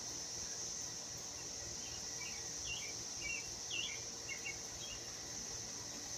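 Insects trilling steadily at a high pitch, with a small bird chirping several times in quick succession about two to four seconds in, over the low hum of an electric fan.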